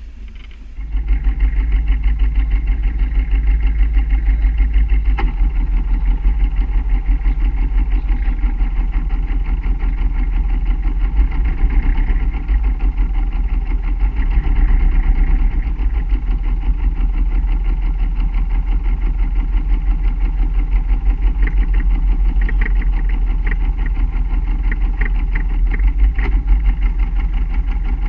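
A sailboat's inboard auxiliary engine running steadily with an even, rapid pulse. It comes in loud about a second in.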